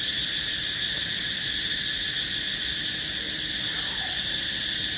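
Chorus of many cicadas singing together: a steady, high-pitched drone with no break.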